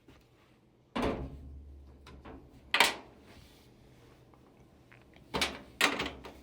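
Four knocks and clunks from a drill and a screw being worked against the dryer's back panel. The clunks come about a second in, near the middle, and twice close together near the end.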